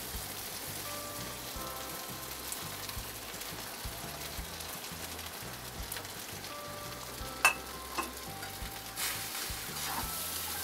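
Cooked rice and onion tempering sizzling in hot oil in a kadhai, stirred and scraped with a steel spoon, with two sharp clinks of the spoon on the pan about half a second apart, some seven seconds in.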